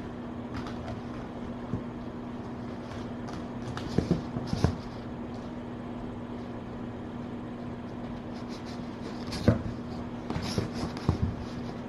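A steady low machine hum, like a fan or air conditioner in a small room, with a few scattered clicks and knocks: two about four seconds in, a sharper one about nine and a half seconds in, and a small cluster near the end.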